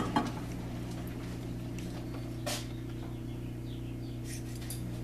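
Steady low hum of a 1942 South Bend lathe's motor running, with a few light clicks and taps, one a little after two seconds in.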